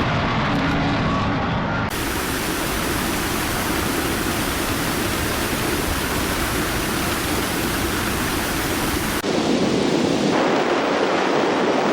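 Loud, steady rushing of floodwater, with abrupt changes in its sound about two seconds in and again about nine seconds in.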